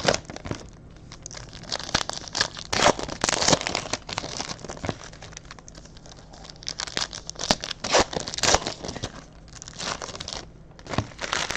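Panini Hoops basketball card pack wrappers being torn open and crumpled, an irregular run of crinkling and crackling.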